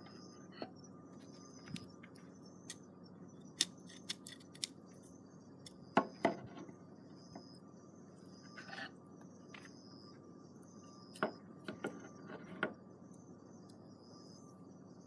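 Crickets chirping steadily, with scattered sharp pops and clicks of a wood campfire crackling, the loudest around the middle and near the end.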